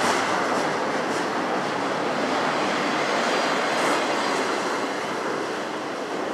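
Double-stack intermodal train's well cars rolling past: a steady rumble of steel wheels on rail with a few faint clicks.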